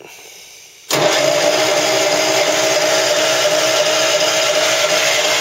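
Deutz-Allis tractor's diesel engine cold-started after sitting a month. It fires about a second in and runs steadily at a fast idle, its pitch sinking slightly as it settles.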